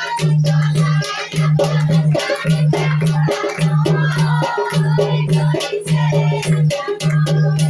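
Dehati folk dance song (naach geet): a voice singing over a low bass note that pulses about once a second, with quick percussion strokes running through it.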